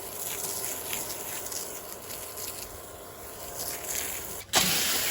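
Faint rustling and outdoor noise, then about four and a half seconds in a steady, louder rush of water from a garden hose starts.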